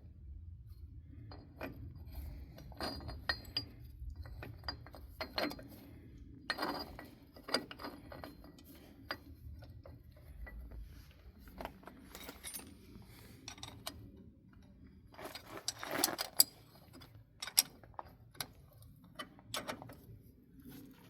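Metal tools and parts clinking and knocking irregularly as a puller is set up on a truck axle, with a busier flurry of clinks about three quarters of the way through.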